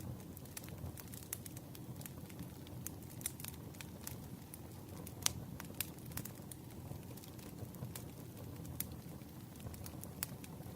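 Campfire crackling: a steady low rush of flame with frequent sharp, irregular pops and snaps of burning wood, one louder pop about five seconds in.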